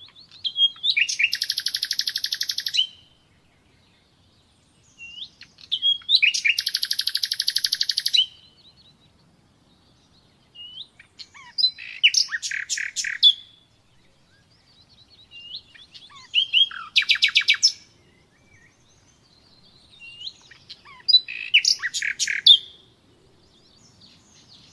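Nightingale singing five separate song phrases, each about two to three seconds long with short pauses between. The first two phrases are built on a fast, rapid-fire trill of repeated notes; the last three are runs of loud, sharp notes repeated more slowly.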